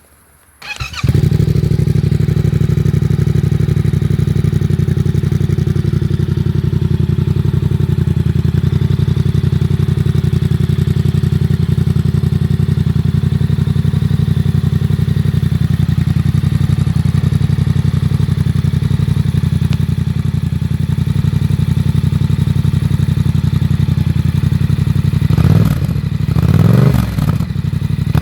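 Yamaha MT-07's parallel-twin engine breathing through a Black Widow 200 mm aftermarket exhaust with its dB killer fitted: it starts about a second in and settles into a steady idle. Near the end it is revved in a few quick throttle blips.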